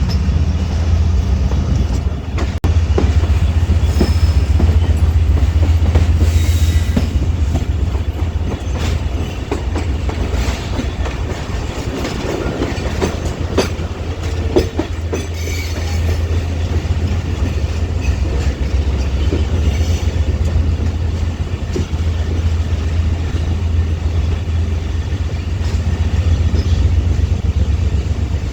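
Moving passenger train heard from on board: a steady low rumble of wheels and running gear, with irregular clicks and knocks from the track.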